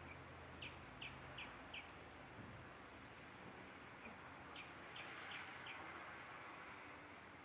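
A bird calling faintly: a run of four short, high, falling notes about half a second apart, given twice, over a faint steady hiss.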